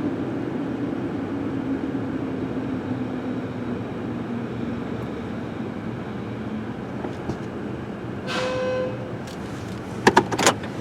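Mark VII automatic car wash machinery running, heard from inside the car: a steady rush with a motor whine slowly falling in pitch. About eight seconds in there is a brief beep, and near the end a few sharp knocks.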